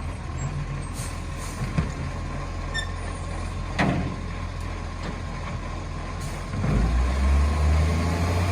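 Garbage truck's diesel engine running steadily, with a short sharp burst about four seconds in, then the engine revving up louder near the end.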